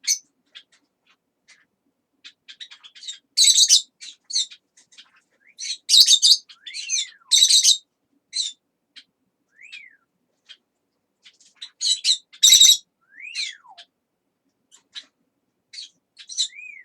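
Pet parrots calling: a run of short, harsh chirps and squawks, with a few whistles that slide downward in pitch, about seven and thirteen seconds in.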